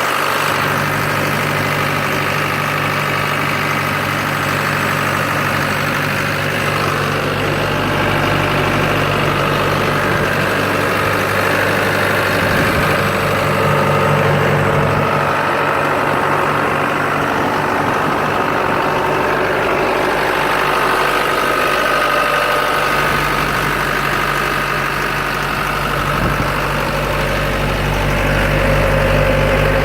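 Cat RT80 telehandler's engine idling steadily.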